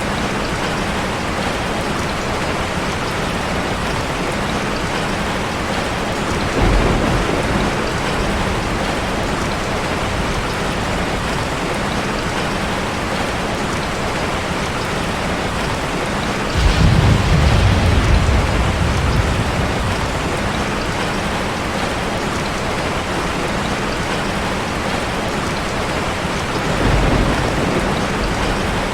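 Steady rushing noise of falling water from a waterfall ambience. Three deep rumbles swell up over it: about a quarter of the way in, a longer and louder one past the middle lasting some two seconds, and a short one near the end.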